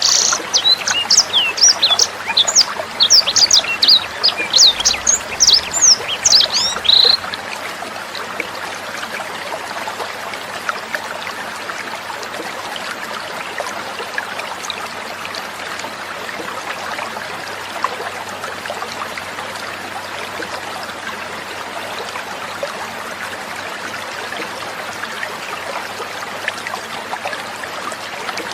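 Sanger singing a rapid run of high chirps and trills over trickling water. The song stops about seven seconds in, leaving the steady trickle of water alone.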